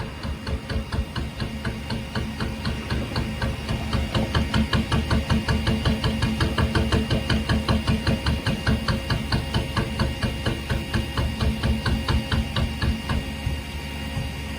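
An engine running with an even, rapid pulsing knock, about five beats a second, growing louder partway through and then settling into a smoother steady running sound near the end.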